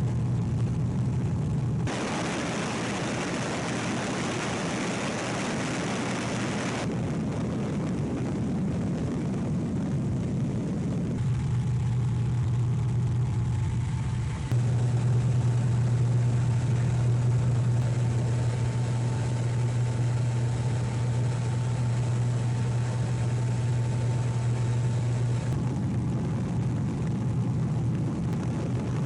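Small propeller plane's engine droning steadily, heard from inside the cabin, with a steady low hum and a thin higher whine. The sound changes abruptly several times as the footage cuts between shots, and one stretch of a few seconds near the start is a broader rushing noise.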